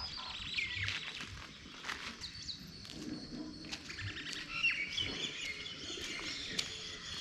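Several birds chirping and calling, many short overlapping chirps and whistles.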